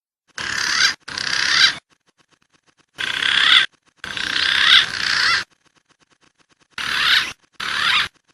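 Wild pigeon calls from a bird-lure recording: three pairs of calls, each call swelling louder and cutting off sharply, the pairs about three seconds apart.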